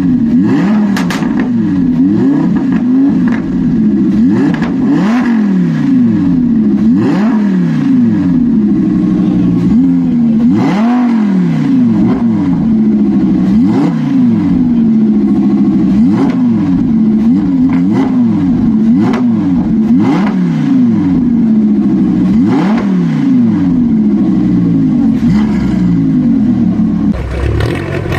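Loud car engine being revved again and again, the pitch climbing and falling back roughly once a second, until it changes about a second before the end.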